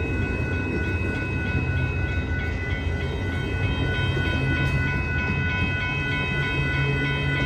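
Amtrak California Zephyr passing behind three GE P42DC diesel-electric locomotives: a steady diesel rumble with rail noise, growing slightly stronger about halfway through. A steady high-pitched tone rings over it.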